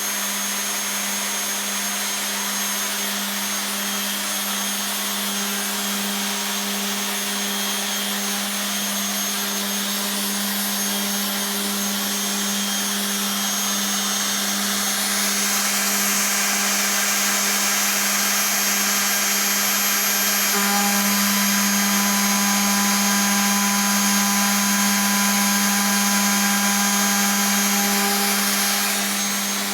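Makita RP2303 router running steadily in a router table, with a constant high hum and a hiss over it. About halfway through the sound turns brighter, a few seconds later the hum grows stronger, and it eases off slightly near the end.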